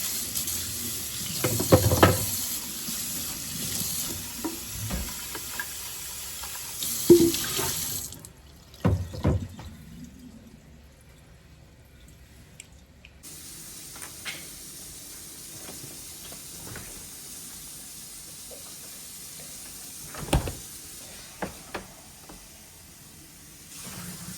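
Water running from a tap, with a few knocks and clunks of things being handled. The water stops about eight seconds in and starts again more softly about five seconds later.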